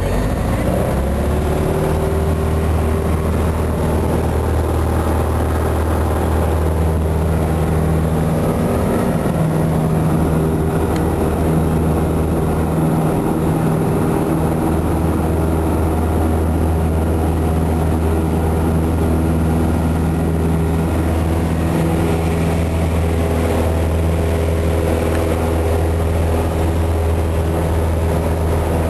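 Piper Cherokee 180's four-cylinder Lycoming engine and propeller rising in pitch as the throttle comes up to full power in the first couple of seconds, then running steadily at takeoff power.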